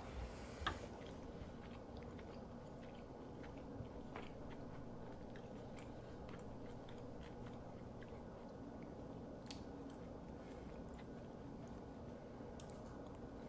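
Faint close-miked chewing and mouth sounds of a mukbanger eating cheese: soft scattered smacks and clicks over a steady low hum.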